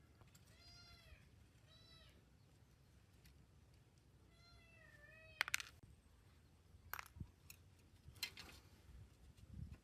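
A cat meowing three times, short calls that rise and fall in pitch, followed in the second half by a few sharp clicks and knocks.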